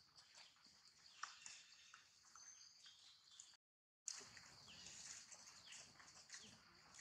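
Faint scattered bird chirps and short falling calls, with a few small clicks; the sound drops out completely for about half a second just past the middle.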